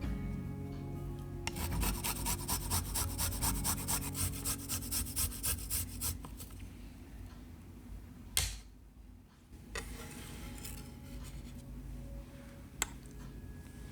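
Food preparation in the kitchen: a quick run of even rasping strokes, about four or five a second, for several seconds, then softer rubbing and a few isolated knocks.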